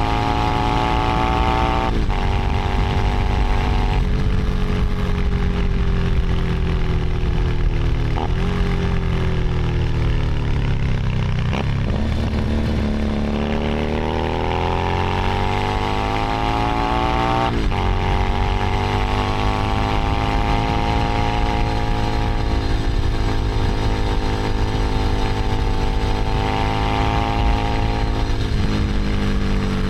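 Keeway SCR 250V's V-twin engine and stock exhaust while riding. The revs climb and fall steadily, broken by several sudden pitch jumps at the gear changes, with one long climb about halfway through followed by a slow fall.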